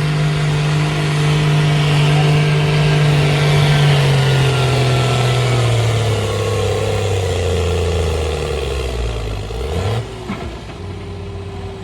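Competition pulling tractor's engine running hard at high revs under load. Its pitch sinks steadily over several seconds as it is dragged down by the weight of the sled, then the sound drops off abruptly near the end as the pull ends.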